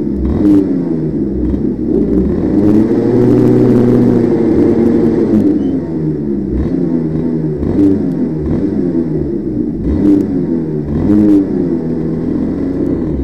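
A motor vehicle's engine revving up and down again and again, its pitch rising and falling every second or two, with scattered sharp knocks.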